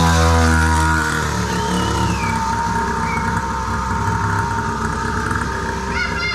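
Small 49cc two-stroke engine of a mini enduro pocket bike, running through its dual-pipe exhaust. It holds a steady, higher note for about a second, then drops to a lower, rougher note.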